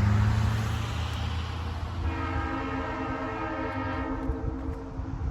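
EMD GP9 diesel locomotive running with a low rumble, loudest at the start. About two seconds in, its air horn sounds one long chord, held for about three seconds.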